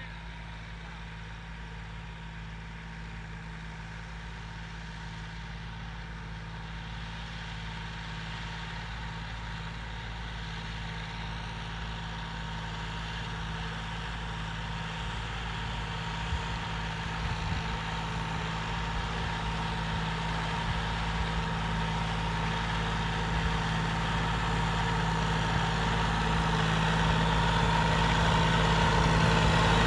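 John Deere 5050D tractor's three-cylinder diesel engine running at a steady speed while pulling a 16-disc harrow, with a thin steady whine above the engine note. It grows steadily louder throughout as the tractor comes closer.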